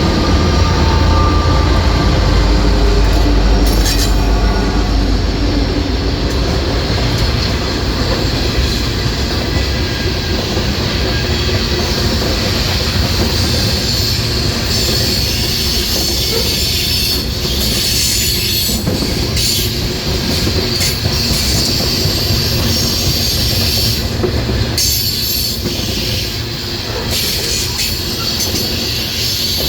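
Loaded coal train of gondola cars rolling past, wheels clattering on the rail joints. A heavy low rumble fills the first several seconds and then eases, and from about halfway a high steel wheel squeal rises over the rolling noise.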